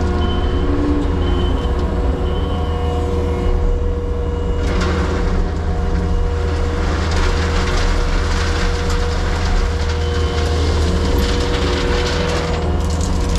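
Diesel construction machine running steadily, a low engine rumble with a steady hydraulic whine over it. From about four and a half seconds in, frequent metallic clanks and rattles join it.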